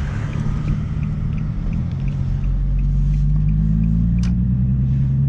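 Infiniti G35's VQ35 V6 through a straight exhaust with the muffler and resonator deleted, a deep rumble that gets louder and rises slowly in pitch about two seconds in as the car pulls away under light throttle.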